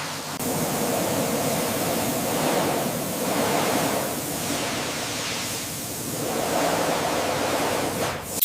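A steady rushing spray hiss that swells and eases slowly.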